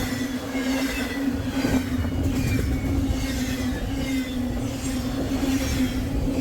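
Westbound CSX freight train passing close by: a steady locomotive hum over a rolling rumble, with faint high wheel squeals.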